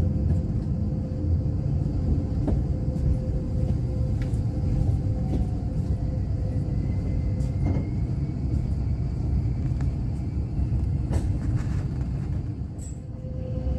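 Steady low rumble of a Kintetsu limited express train running along the line, heard inside the passenger cabin, with a faint steady hum and a few sharp clicks. It goes briefly quieter near the end.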